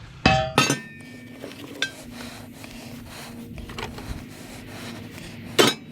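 Scrap metal being set down and handled: two ringing metallic clanks just after the start, light clicks and scraping with a faint steady hum underneath, and another loud clank near the end.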